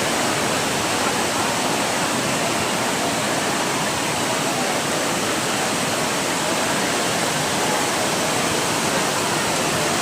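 Heavy downpour: a steady, even rush of falling rain and running rainwater.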